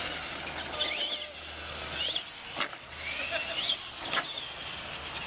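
Electric motor of a radio-controlled monster truck whining up and down in pitch with bursts of throttle, with two sharp knocks in the second half.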